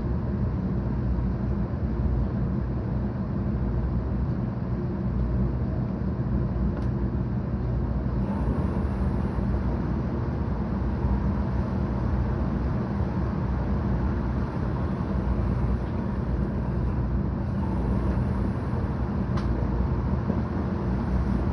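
Inside a 700 Series Shinkansen passenger car: the steady low rumble of the train running on the line, with two faint ticks.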